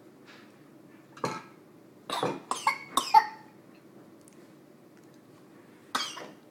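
Young child coughing: one cough about a second in, a quick run of three or four a second later, then one more near the end.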